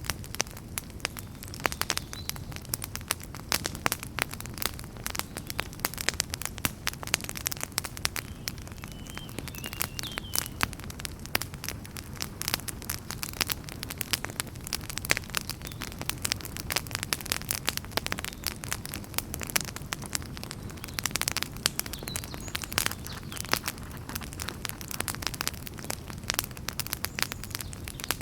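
Wood campfire burning and crackling, with dense, irregular pops and snaps over a low steady rumble of flame.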